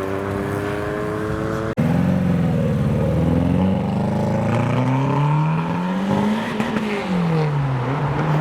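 Car engine pulling away at low, slowly rising revs, cut off abruptly about two seconds in. Another car's engine follows, louder, its revs rising and falling as it drives off.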